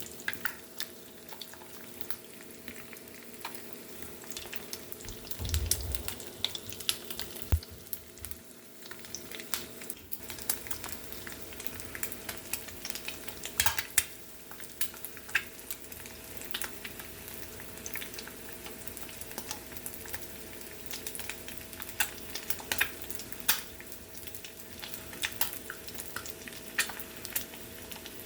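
Eggs frying in a pan with a steady sizzle. A utensil scrapes and taps against the pan in repeated sharp clicks, over a low steady hum.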